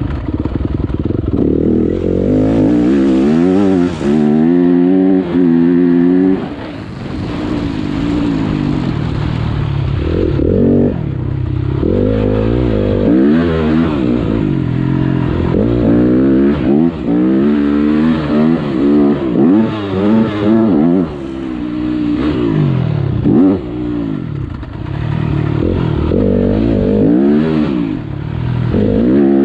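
Motocross bike engine revving hard and shifting, its pitch climbing again and again through the gears, with brief throttle-offs between bursts as it is ridden around the track.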